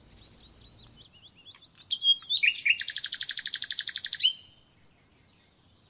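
A small bird chirping: a few short, high chirps, then a fast trill of rapidly repeated notes lasting about a second and a half.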